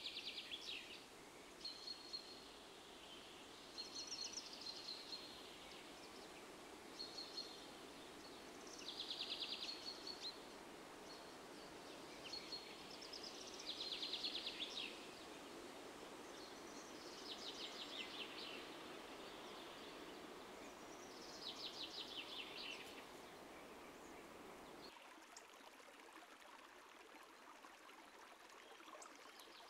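A songbird singing short, rapid trills again and again, one every two to four seconds, with a few brief single-pitch notes between them, over a steady outdoor hiss. About 25 s in the low rumble of the background drops away and the singing stops.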